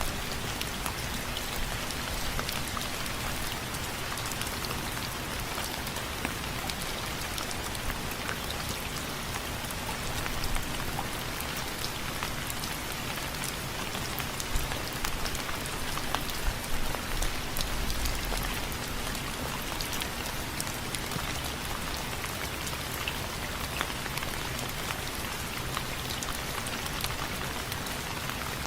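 Steady rain with many individual drops tapping sharply on a window frame. Some drop hits are louder in the middle stretch.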